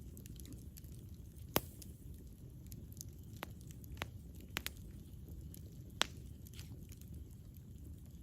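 Campfire burning: a steady low rumble with scattered sharp crackles and pops. The loudest pops come about one and a half seconds in and again near six seconds.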